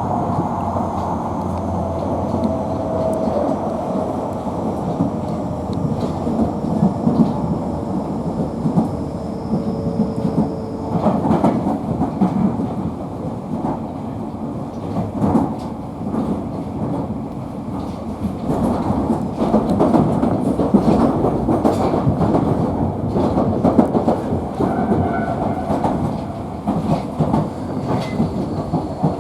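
Electric commuter train running at speed on the Tobu Noda Line, heard from inside the car: a steady rumble with repeated wheel clicks over the rails and a faint steady whine.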